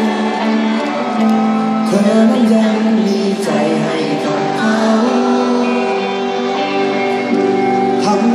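A live song performance: a singer over guitar accompaniment.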